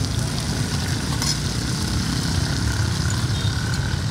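Cubes of rice-flour cake frying in lard on a wide flat pan, sizzling over a steady low rumble, with one short scrape or tap of a metal spatula about a second in.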